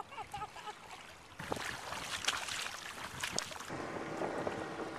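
Water splashing and swishing along the hull of a Hobie inflatable kayak as it moves quickly through the harbour, starting about a second and a half in, with wind on the microphone.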